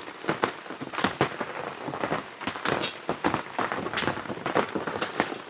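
Rain falling on an awning overhead, heard as many irregular drips and taps.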